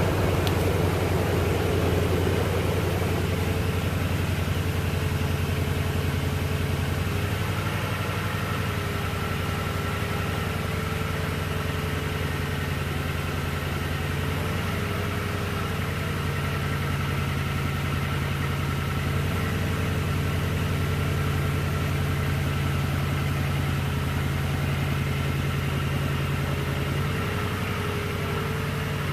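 Toyota Tundra TRD Pro's 5.7-litre V8 idling through its true dual exhaust just after a morning start-up. It runs a little louder in the first few seconds, then settles to a steady low idle.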